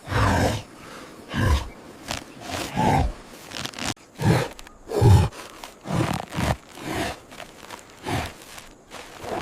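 A series of about a dozen short grunting, roar-like vocal sounds, one or two a second, each starting and stopping abruptly.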